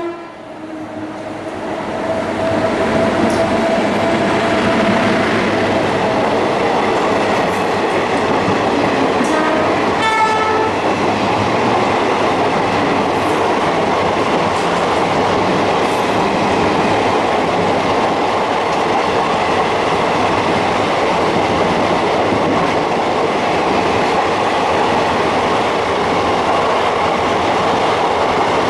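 Electric-hauled express train passing a station platform at speed: the rush of the coaches and their wheels clattering over rail joints builds over the first few seconds and then holds loud and steady. A short horn blast sounds about ten seconds in.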